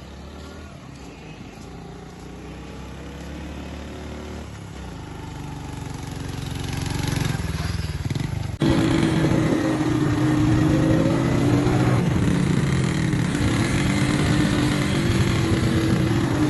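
A motor vehicle engine running. It grows louder over the first half, then is suddenly louder still, as after a cut, about halfway through.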